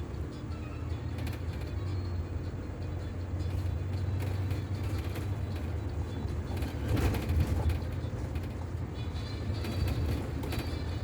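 A city bus in motion heard from inside the passenger cabin: a steady low engine drone with road noise and scattered rattles. A louder jolt of rattling comes about seven seconds in.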